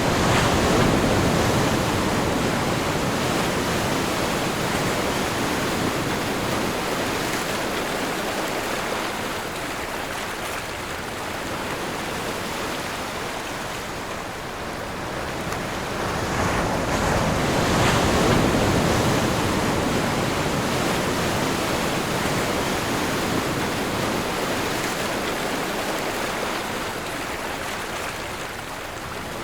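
Ocean waves rolling in and breaking: a continuous rush of surf that swells twice, once at the start and again about two-thirds of the way through, easing off in between.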